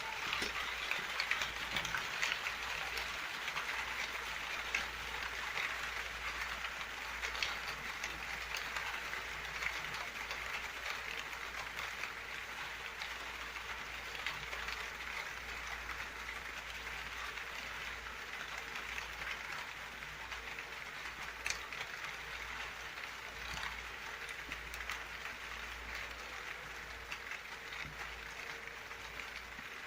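Steady rain falling, a dense even hiss with many separate drop ticks in it.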